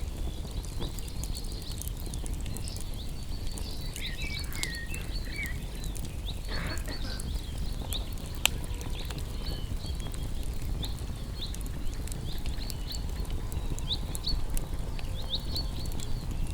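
Campfire of burning wood: a steady low rumble with scattered crackles and one sharp pop about halfway through, and short high chirps in the background.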